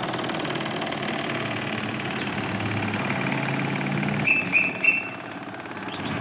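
Small DC motor running steadily, as it spins a cardboard propeller. A few short, high chirping tones come in a little over four seconds in.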